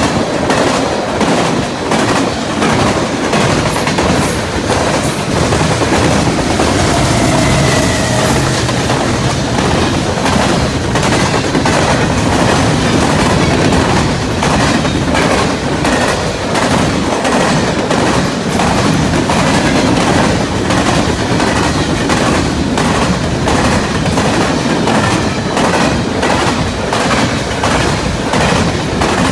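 Freight train cars rolling through a level crossing, wheels clacking steadily over the rail joints.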